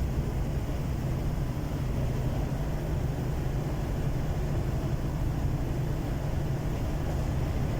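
DR1B diesel multiple unit running at speed: a steady low drone of engine and rail noise with no distinct wheel clicks.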